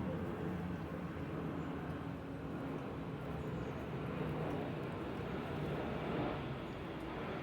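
Steady low rumble and hiss of outdoor background noise, with no distinct calls or impacts standing out.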